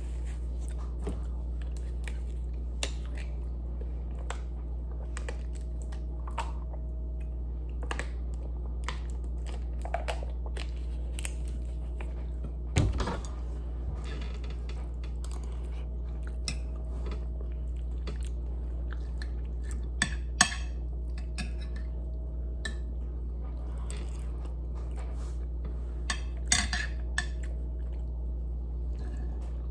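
Close-miked chewing and mouth sounds of someone eating chicken and rice, with scattered clicks and a few louder clinks of a metal fork against a plate. A steady low hum runs underneath.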